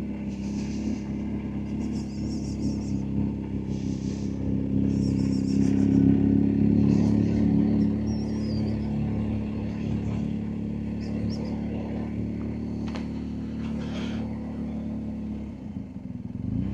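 BMW R1250GSA boxer-twin engine running steadily at low speed, a little louder for a few seconds early on.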